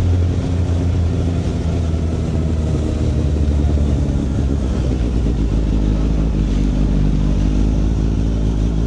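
Suzuki Hayabusa's inline-four engine running steadily while riding at a constant speed.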